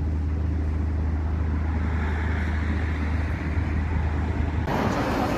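A motor vehicle's engine running with a steady low hum. About four and a half seconds in, the sound changes suddenly to a louder, hissier rushing noise.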